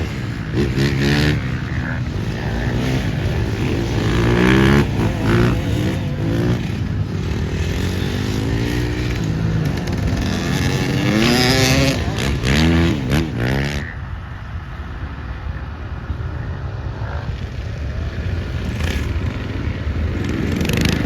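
Off-road motocross bikes revving on the track, their engine pitch climbing and falling again and again with throttle and gear changes. About fourteen seconds in the sound changes abruptly to a duller, steadier engine drone.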